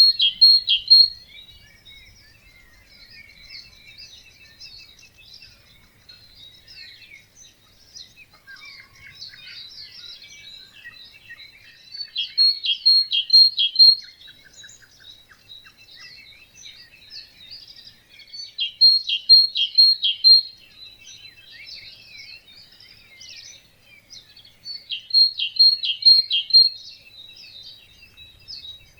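A dawn chorus of many birds singing at once, with one nearer bird repeatedly giving a short, loud phrase of several quick notes, about four times, every six or seven seconds, over a steady background of fainter songs and chirps.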